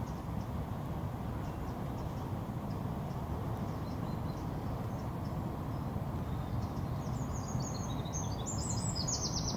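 Steady low outdoor rumble, with small birds starting to sing in quick high chirps and trills about seven seconds in.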